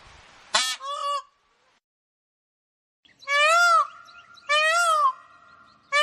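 A bird giving loud, nasal, goose-like honking calls: two short calls about half a second in, then three longer honks about a second apart, each rising and falling in pitch.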